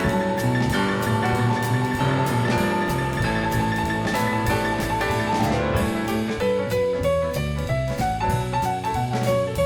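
Instrumental jazz with piano and a drum kit keeping a steady beat.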